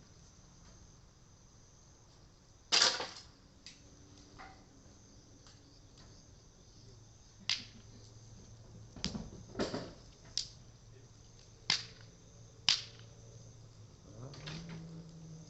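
Cedar wood burning in an open bonfire, popping with sharp snaps every second or two over a faint crackle; the loudest pop comes about three seconds in. A faint steady insect drone sits high in the background.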